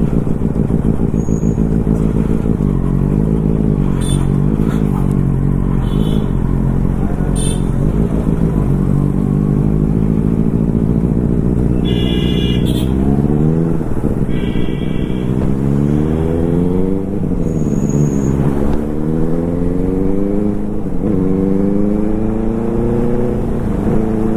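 Superbike engine running while riding, steady at first, then accelerating through the gears from about halfway: the pitch rises and drops back at each upshift, three or four times. A vehicle horn sounds twice around the middle.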